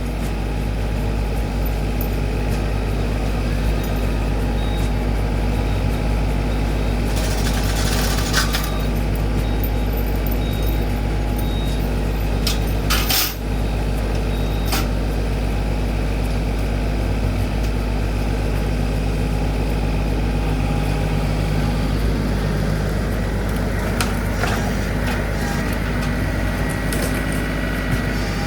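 Tractor engine running steadily, with a couple of sharp knocks or cracks over it.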